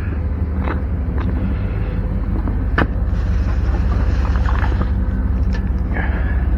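A vehicle engine running with a steady low rumble, with scattered sharp clicks and knocks over it.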